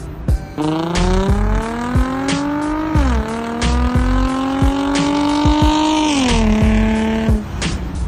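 A Ford Mustang V8 accelerating hard, its pitch climbing through the gears with an upshift about three seconds in and another about six seconds in, then easing off near the end. Background music with a steady drum beat plays along with it.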